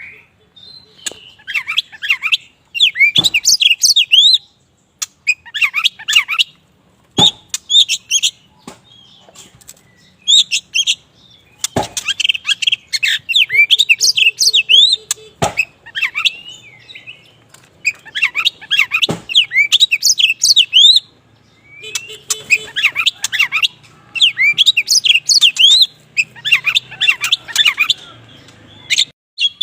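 Black oriental magpie-robin (kacer wulung) singing in bursts of quick, varied whistled notes a few seconds apart, with sharp clicks between phrases about every four seconds.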